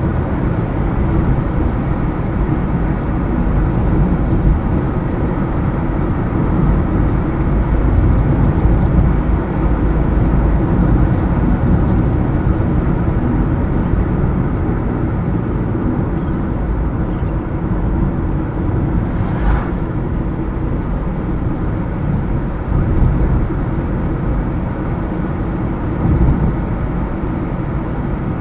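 Steady road noise of a car driving on a highway: low tyre rumble and engine hum.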